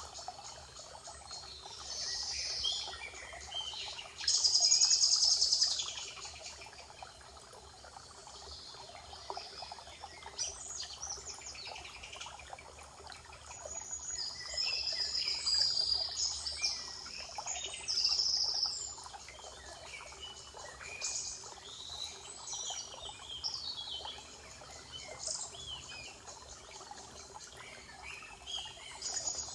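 Several wild birds singing and calling in a spring forest, over a faint steady background hiss. The loudest is a dense high trill about four seconds in, and there is another busy stretch of song around the middle.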